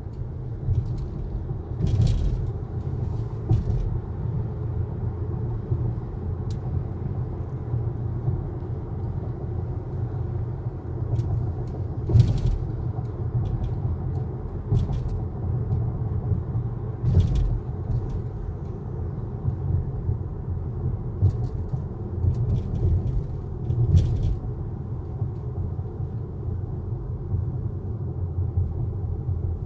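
Road rumble inside a 2021 Acura TLX's cabin while driving, broken by short, irregular squeaks and creaks from the right passenger door, about a dozen in all.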